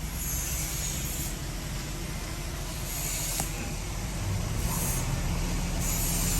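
Heavy diesel earthmoving machinery running steadily, a low engine rumble that grows a little louder in the last couple of seconds, with a few short hisses now and then.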